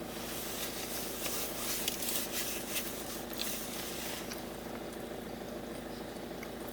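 Faint rustling and small clicks of people eating from food wrappers, over a steady low background hum.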